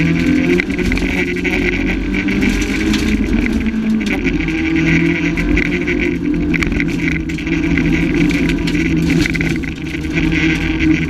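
Renault Clio rally car's engine heard from inside the stripped cabin, driven hard on a rally stage. Its pitch drops once about four seconds in, then holds steady.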